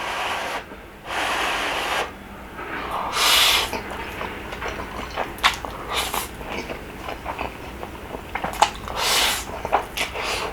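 Slurping rabokki noodles in several hissing pulls of about half a second to a second, with chewing and small clicks in between.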